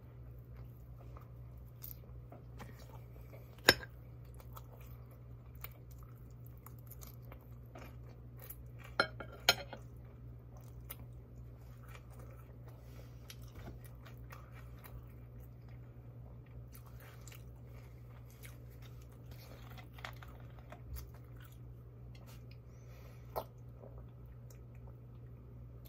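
Close-miked chewing and biting of a chimichanga, with many small mouth clicks and a few sharp louder clicks, the loudest about 4 s and 9 s in, over a steady low hum.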